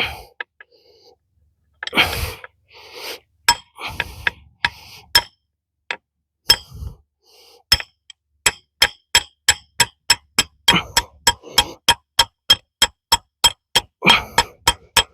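Hammer striking a steel pin punch to drive a pin out of a Ford transmission. The taps ring metallically: a few scattered strikes at first, then a steady run of about three a second through the second half.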